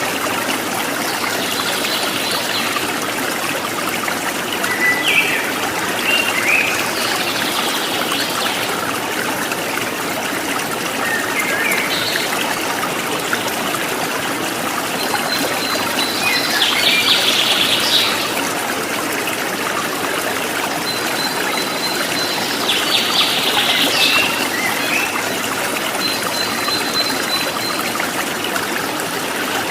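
Steady running water of a trickling stream, with a songbird singing short phrases every few seconds over it, some of them rapid trills.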